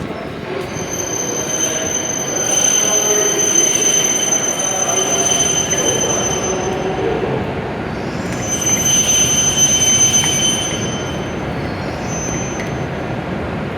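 W7-series Shinkansen train running at the station platform, with a steady rumble. A high-pitched whine lasts from about a second in to about seven seconds, and comes again for a couple of seconds near the eleven-second mark.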